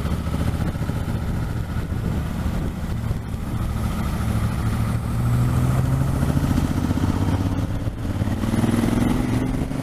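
Motorcycle engine running while riding, with wind and road rush. The engine note rises about halfway through and again near the end as the bike accelerates.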